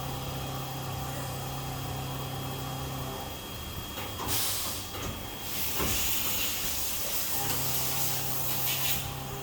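CNC machine cutting a groove in a stainless steel part: a steady machine hum with faint steady tones. Loud hissing spray comes in about four seconds in and again from about six seconds.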